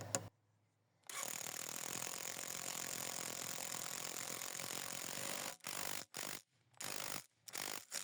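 A power tool working green oak, a steady, even noise that starts about a second in, then comes in several short spells with dead silence between them near the end.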